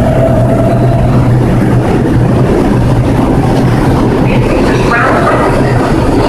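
New York City Subway 2 train running through the station, a loud, steady rumble of wheels and motors.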